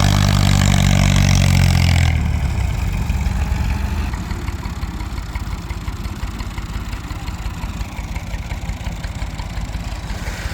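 Massey Ferguson tractor's diesel engine running at high revs, then dropping about two seconds in and settling to a steady idle.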